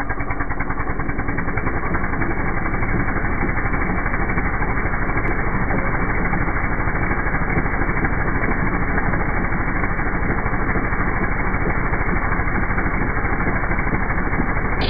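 Small engine of a Stella Plus SP1000E hand-held almond harvester (branch shaker) running steadily at high speed, with a rapid, even pulsing.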